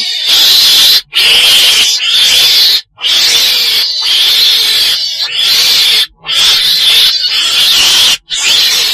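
Chồn đèn, a weasel-like mustelid, giving loud, harsh, hissing screech calls in bouts of one to three seconds broken by brief pauses. This is the call used as a lure for trapping.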